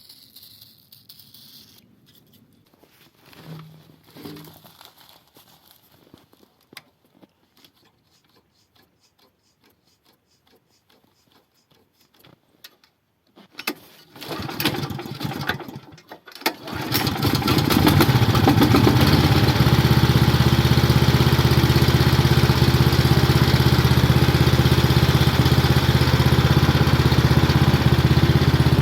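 An engine is started about fourteen seconds in, surging unevenly for a couple of seconds before it catches, then runs loud and steady. Before that, only faint scattered clicks.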